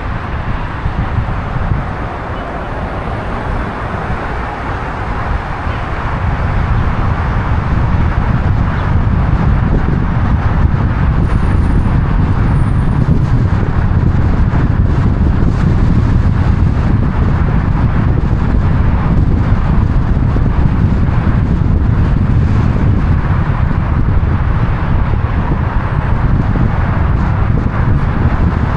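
Steady road-traffic noise with low wind rumble on the microphone, getting a little louder about six seconds in.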